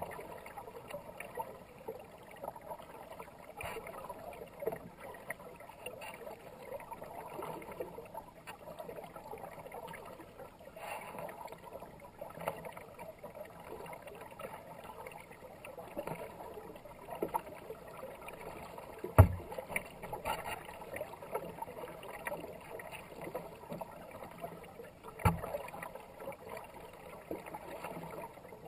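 Kayak paddle strokes dipping and splashing in fast river water, with water rushing and gurgling past the hull. Two sharp knocks stand out, the louder one about two-thirds of the way through and another near the end.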